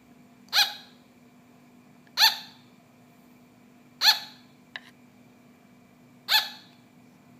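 Sugar glider barking: four short, sharp yaps spaced about two seconds apart.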